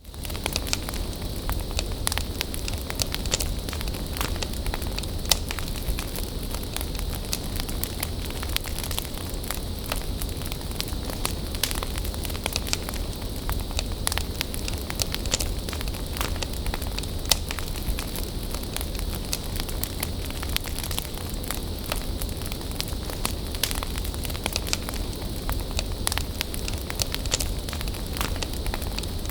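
Wood bonfire burning with a steady hiss over a low rumble, with frequent sharp crackles and pops throughout.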